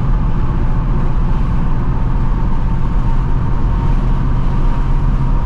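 Stock 2024 Ford Mustang GT's 5.0-litre V8 and active exhaust droning steadily while cruising at low revs, still under break-in.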